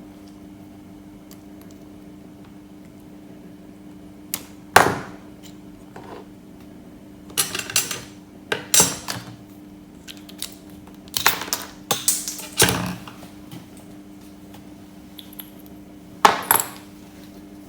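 Small hard objects clattering and clinking in a series of irregular knocks, like tools and parts being picked up and set down on a work surface, over a faint steady hum.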